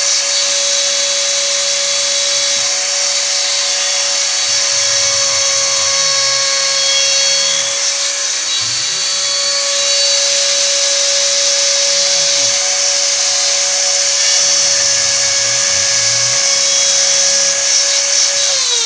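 Homemade CNC router milling plastic: the spindle's steady high whine with a dense cutting hiss, while the axis stepper motors' lower tones rise and fall in short glides as the machine moves. Near the end the spindle whine slides down in pitch as the job finishes and the spindle spins down.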